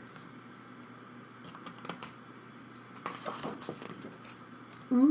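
Thick, heavy photobook pages being turned and handled: scattered paper rustles and soft flicks, in two clusters. Right at the end a person's voice makes a short 'ooh'.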